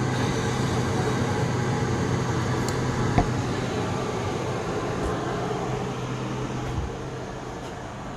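Steady hum of a running appliance or fan, a low electrical drone under a broad airy whir, slowly fading toward the end, with one short click about three seconds in.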